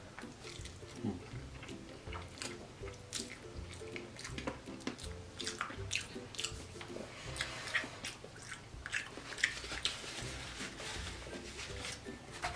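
Close-miked chewing of a mouthful of rice noodles, with many short, wet mouth clicks and smacks at an irregular pace.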